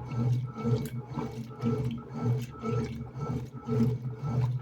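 Electrolux LTE08 top-loading washing machine, fitted with the motor from an LM08, agitating a load: the motor hums and water sloshes in an even back-and-forth rhythm, a swell about every half second as the agitator reverses.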